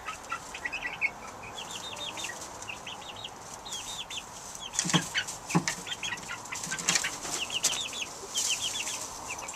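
Eight-week-old chicks peeping, a steady run of short, high chirps one after another, with two sharp knocks about five seconds in.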